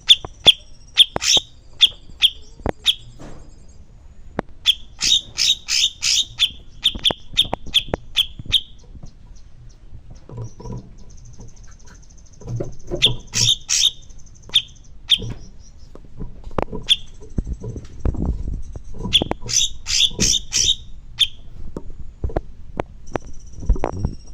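A songbird singing in rapid runs of sharp, loud chirps, several a second, in four bursts, with a thin high whistle held between some of the runs. Low knocks and rumbling sit underneath.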